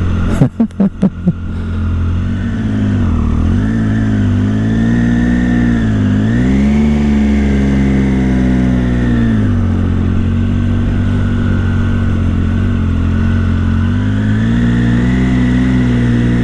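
Triumph Tiger 800's three-cylinder engine running under the rider, its note rising and falling as the throttle is worked through tight bends. A quick run of five sharp pulses about half a second in.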